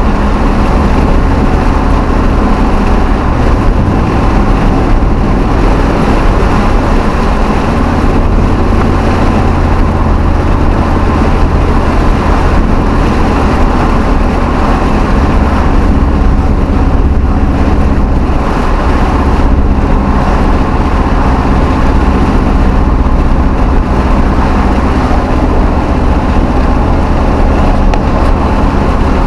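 V8 Hemi pickup truck's engine and exhaust running, a steady low drone that shifts in pitch a couple of times.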